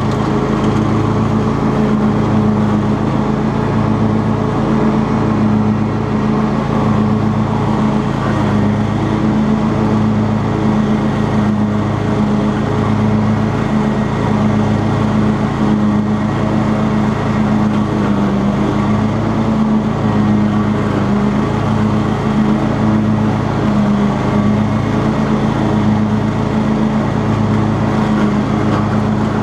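Cub Cadet XT2 riding lawn tractor's engine running steadily while mowing with its 42-inch cutting deck engaged.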